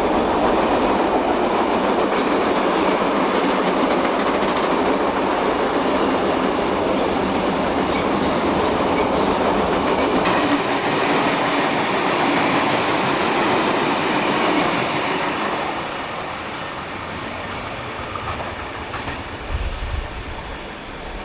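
A train running on the rails close by, a steady noise of wheels on track that eases off about fifteen seconds in. A short low thump comes near the end.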